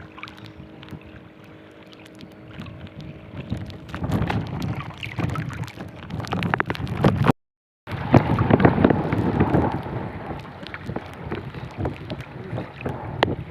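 Strong wind buffeting the microphone, with water and knocks around a small fishing boat. A steady hum fades out about four seconds in, after which the wind noise grows louder. There is a short total drop-out just past halfway.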